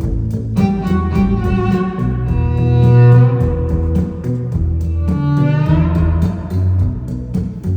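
Live indie-rock band playing an instrumental break: a violin line over bass and a steady beat, with a note sliding upward about five seconds in.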